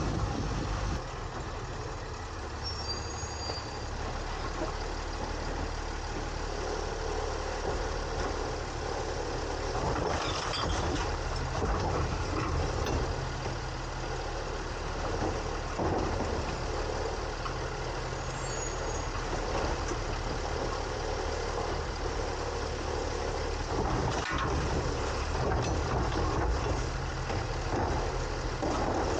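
Garbage truck, a 2022 Autocar ACX with a New Way Sidewinder side-loader body, running steadily as heard from inside its hopper, with a few short knocks and clatters along the way.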